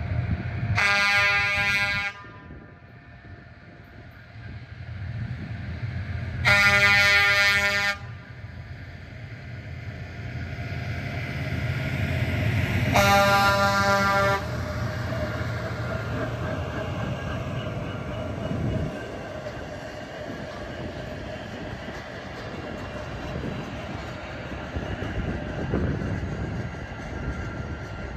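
Horn of a Loram track-maintenance train sounding three long blasts about six seconds apart, over the steady rumble of the train running through the grade crossing.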